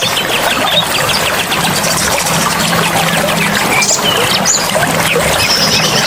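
Running, trickling water with birds chirping and trilling over it in a forest soundscape, the birds giving rapid repeated notes and short high chirps.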